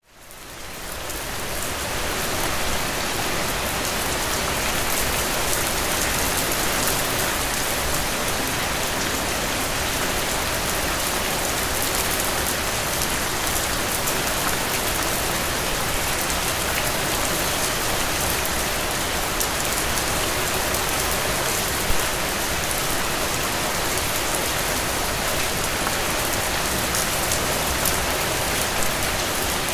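Heavy, steady rain falling on soaked ground and puddles: a dense, even hiss of drops that fades in over the first two seconds and then holds level, with one drop landing a little louder about two-thirds of the way through.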